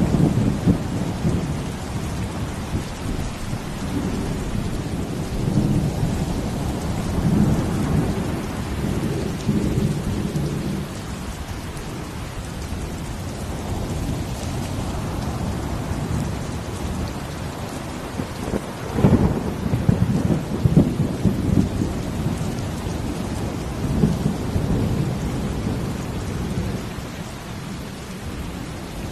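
Steady rain with deep rolling rumbles rising and falling under it, and one sharper, louder crash about nineteen seconds in.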